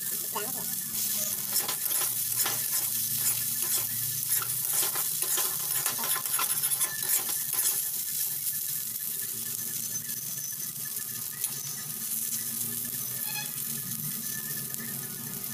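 Potato strips and okra sizzling in hot oil in a metal pan while a metal spatula scrapes and stirs them. The scraping is frequent at first and mostly stops about halfway through, leaving the steady sizzle.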